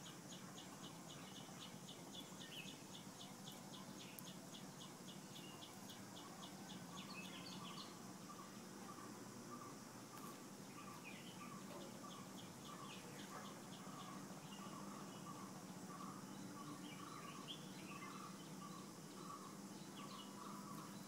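Faint bird calls: rapid high chirps, about four a second, through the first several seconds and again briefly mid-way, and from about a third of the way in a steady series of lower notes, about two a second.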